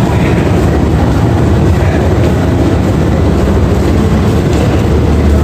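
Steady low rumble of a train at a railway station platform, loud and unbroken.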